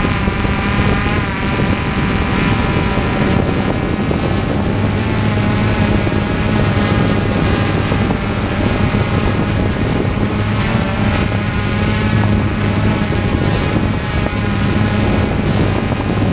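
Propeller aircraft engine running steadily at cruise, a constant pitched drone with wind rush.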